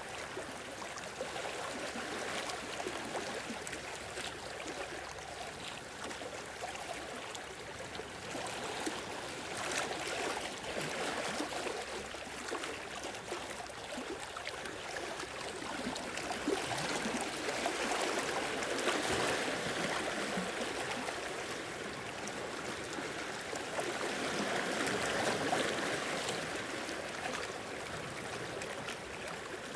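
Small sea waves washing in and out on a beach, a continuous wash of water that swells twice, with the fizz of surf running over sand and rock.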